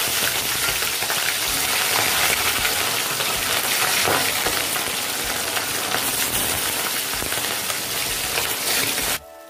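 Boiled, drained chicken pieces deep-frying in hot oil in an aluminium wok, a steady, dense sizzle as the pieces go in one at a time. The sizzle cuts off suddenly near the end.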